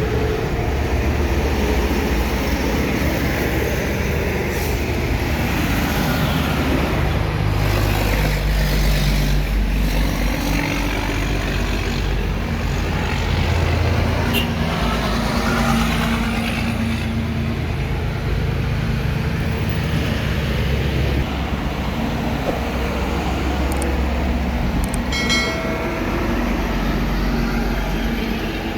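Heavy road traffic: trucks and other vehicles passing with engines running, a continuous mix of deep engine rumble and tyre noise that rises and falls as each one goes by. A brief pitched beep sounds near the end.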